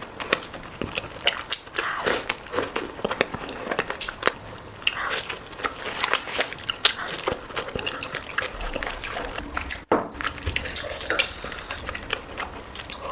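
Close-miked eating sounds: biting, chewing and wet mouth smacks of rice, curry and meat, with many quick irregular clicks and the occasional light clink of dishes or cutlery. There is a momentary gap about ten seconds in.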